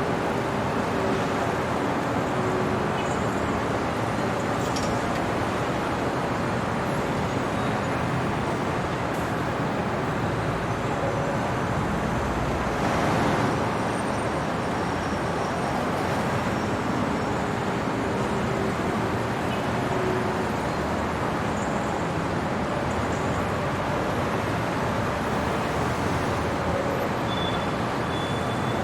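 Steady city traffic noise, an even wash of passing vehicles, with one vehicle passing a little louder about halfway through.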